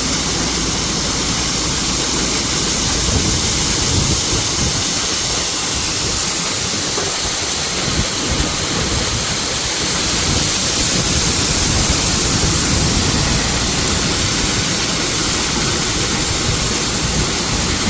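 A truck unloading its load: a steady rushing noise over the low rumble of the running engine.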